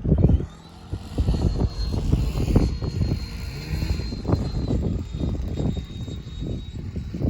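Electric ducted fan of a Freewing F-22 Raptor RC jet whining in flight, holding a steady high pitch that dips a little about four seconds in, with heavy wind buffeting on the microphone.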